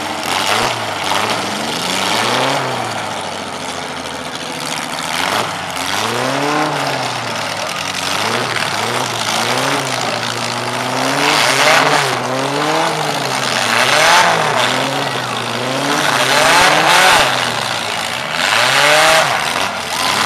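Demolition-derby compact cars' engines revving up and down again and again, several at once, over a steady haze of engine and exhaust noise.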